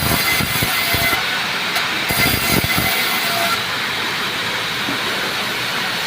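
Band saw running and cutting small pieces of rubberwood: a loud, steady, hissing saw noise, brighter in the first few seconds than toward the end.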